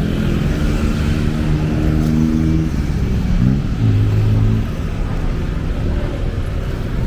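Motor vehicle engines in busy street traffic running steadily. About halfway through, one engine revs up with a rising pitch, then holds a strong low note briefly before the level drops.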